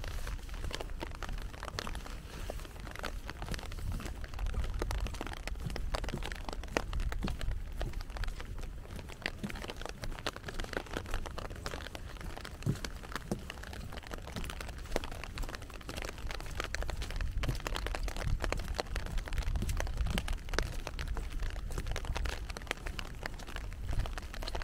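Steady rain heard during a walk: a dense, irregular run of small raindrop taps, with a low rumble underneath.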